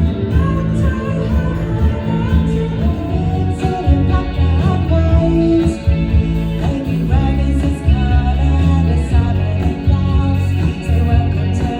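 Live rock band playing a song with a lead vocal, over a heavy, steady bass and drums.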